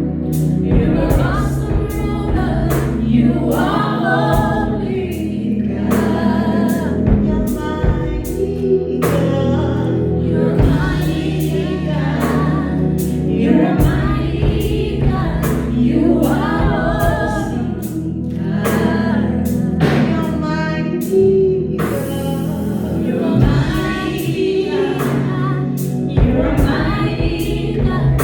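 Choir singing a gospel worship song over accompaniment with held low notes and a steady beat.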